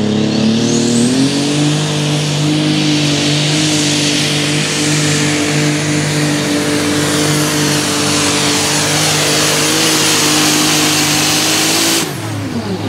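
Light super stock pulling tractor's turbocharged diesel engine revving up and then running flat out under load with a high turbo whistle, until the throttle is cut suddenly near the end.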